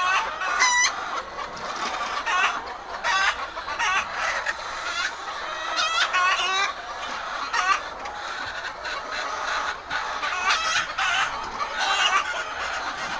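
A flock of hens clucking and squawking together: a steady background of chatter, with louder single calls standing out every second or so.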